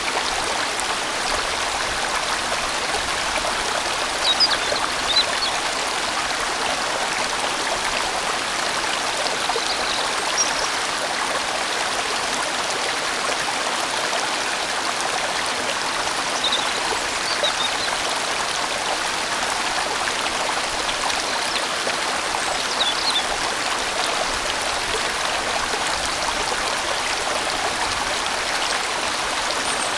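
A sizeable valley stream flowing, a steady, even rush of water.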